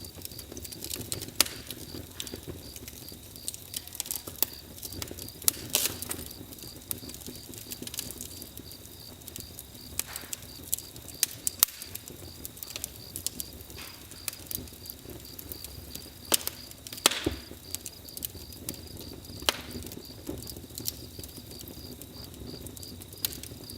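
Wood fire crackling, with irregular sharp pops and snaps over a steady low rush of burning.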